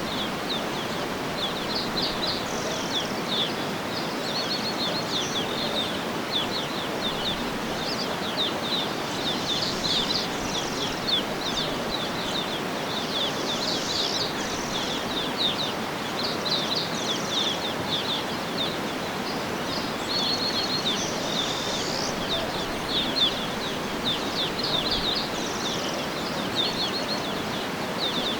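Several birds chirping and trilling in quick short phrases over a steady, even rushing background.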